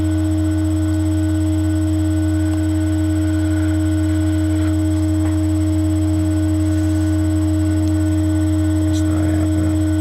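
Loud, steady electrical hum made of several fixed tones, unchanging throughout, with a few faint ticks near the end.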